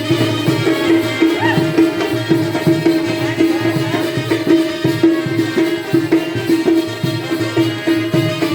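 Indian folk music: a steady held drone note under a quick, busy hand-drum rhythm.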